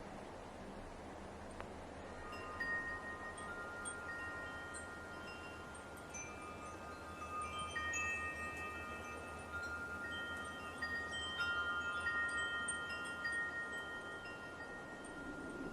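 Wind chimes ringing: several tones at different pitches struck one after another from about two and a half seconds in, each left to ring on and overlap, over a steady background hiss.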